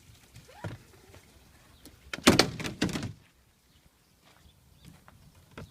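A quick cluster of loud knocks and thuds about two seconds in, lasting about a second, with a few faint clicks before and after.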